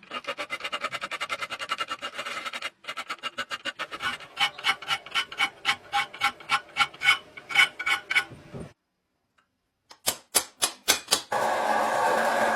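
Hammer blows ringing on steel, in several edited runs: a fast run of about ten blows a second, then a slower steady run of about three a second, a pause, and a short burst. Near the end a steady rushing noise takes over.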